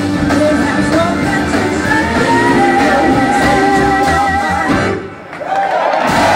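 Blues-rock band playing live, with guitar, drums and singing and a long wavering held note in the middle. The music drops away abruptly about five seconds in.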